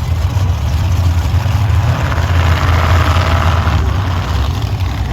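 Monster truck engine running steadily at a low, heavy pitch, with a rush of noise swelling for about two seconds in the middle.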